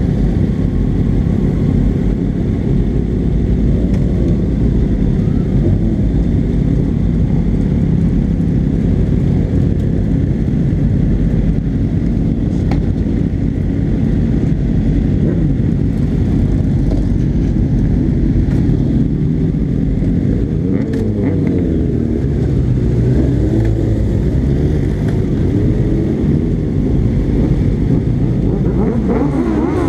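Kawasaki ZX-6R inline-four and the engines of other sport motorcycles running at low speed in a slow-moving group. From about twenty seconds in, nearby bikes rev up and down repeatedly.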